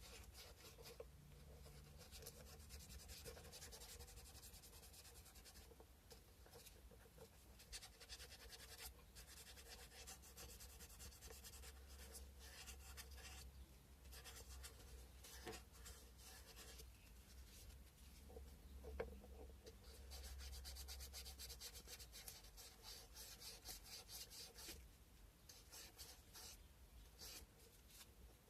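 Sandpaper rubbed back and forth by hand over a carved cow-bone fish hook: faint, quick scratchy strokes in runs with short pauses. One sharp tap comes about two-thirds of the way through.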